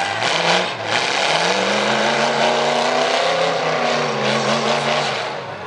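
Pickup truck engine at high revs through loud exhaust, the pitch climbing sharply at the start, wavering up and down, then dropping away near the end.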